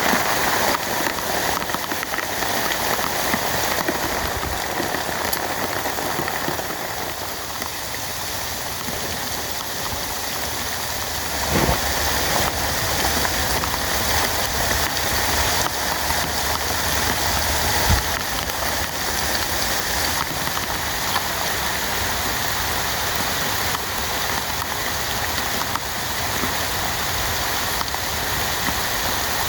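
Heavy rain falling steadily as a dense, even patter, with a couple of short dull thumps, one about twelve seconds in and one about eighteen seconds in.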